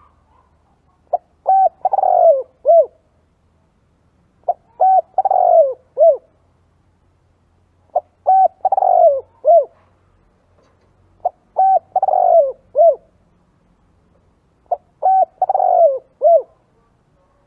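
Spotted dove cooing: five phrases about three and a half seconds apart. Each phrase is a short note, a longer louder note falling in pitch, then two short notes.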